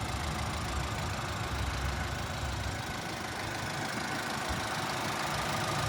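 2023 GMC Canyon's 2.7-litre turbocharged four-cylinder engine idling steadily, heard with the hood open.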